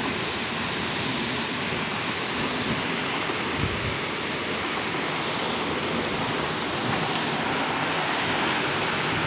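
Heavy rain pouring steadily in a thunderstorm, a dense even hiss. A brief low thump comes about three and a half seconds in.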